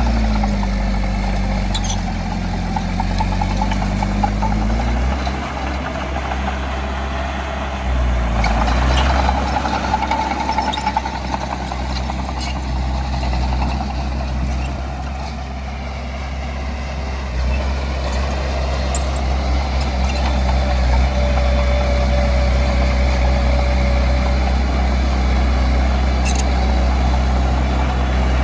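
Heavy diesel engine of earthmoving machinery running, its engine note and load shifting several times, with a few brief knocks.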